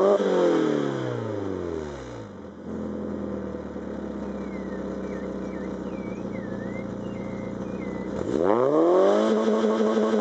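Fiat Grande Punto 1.4's four-cylinder engine running through a full sport exhaust. It falls from a rev back to idle over the first two seconds and idles steadily. About eight seconds in it revs up quickly and holds at a steady higher speed.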